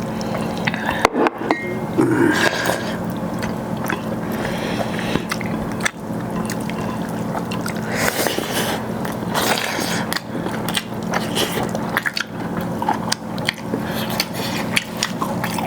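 Close-up wet eating sounds: rice and chicken gravy being mixed and chewed, with irregular smacks and small clicks, over a steady low hum.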